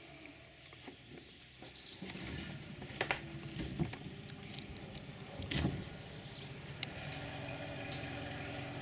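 Small boat's outboard motor running at low speed, coming in about two seconds in as the boat is eased into riverside grass, with a few sharp knocks along the way.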